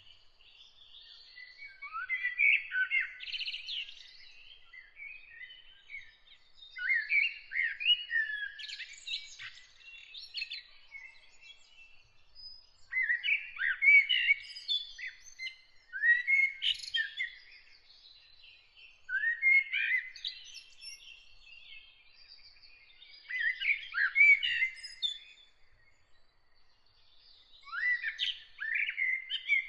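Songbird singing: short warbled phrases of chirps and whistles, sliding up and down, repeated every few seconds with brief pauses between.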